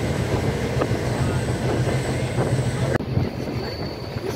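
Passenger train running at speed, heard from a coach window: a steady rumble with sharp clicks as the wheels cross rail joints. About three seconds in the sound changes abruptly to a duller, quieter rush with wind on the microphone.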